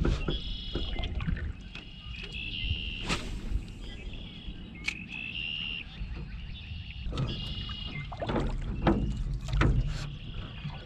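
Rowboat being rowed by hand: oars squeaking in their oarlocks in short repeated high squeaks, with knocks from the oars and a low rumble of wind and water.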